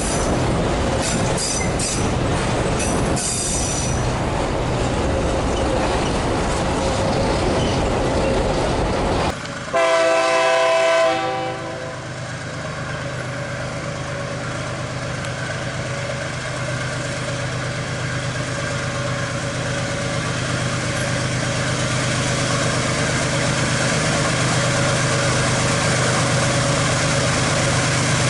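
A freight train rolling past with dense wheel-on-rail noise that cuts off abruptly. A diesel locomotive's air horn then sounds once for about a second and a half, followed by the locomotive's diesel engine running steadily and slowly growing louder.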